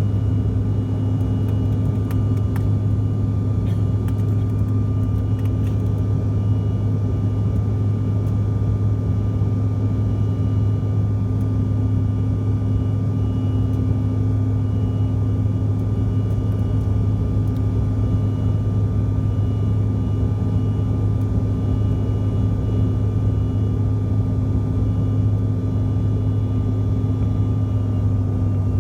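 Steady cabin drone of a CRJ700 airliner in flight from its rear-mounted GE CF34 turbofan engines: a loud, even low hum with a faint steady whine above it.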